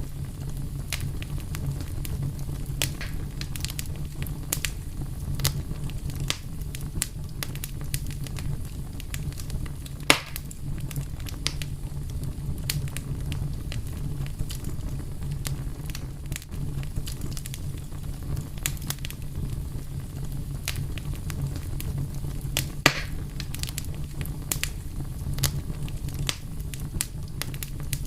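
Fire crackling steadily over a low rumble, with frequent small snaps and two louder pops, about ten seconds apart.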